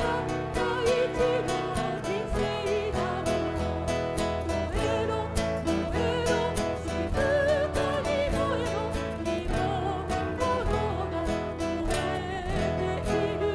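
A solo singer singing a Japanese song with vibrato on held notes, accompanied by piano.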